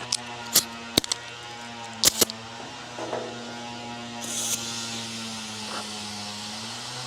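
Steady electric hum of an air compressor running for tire inflation, with several sharp clicks in the first two seconds and a short hiss of air about four seconds in.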